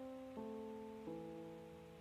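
Soft, slow piano background music, with held notes changing about once every half second to a second.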